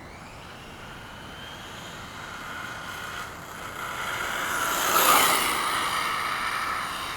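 A 1/5-scale Redcat Rampage MT radio-controlled monster truck accelerating. Its motor and drivetrain whine rises in pitch for about five seconds, is loudest around five seconds in, then holds steady.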